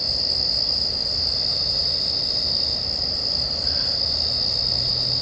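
Steady, unbroken high-pitched chorus of night-singing insects.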